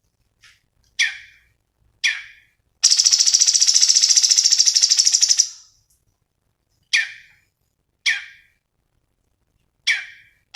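Cucak cungkok songbird singing. It gives sharp single notes that drop quickly in pitch, and a fast high trill about two and a half seconds long, a few seconds in.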